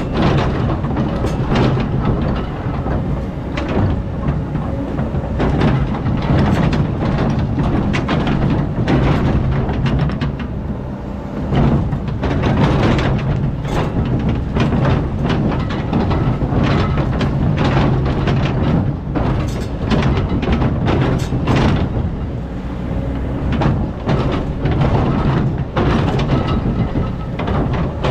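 Excavator's diesel engine running steadily under load, with frequent metallic clanks and knocks from the working machine.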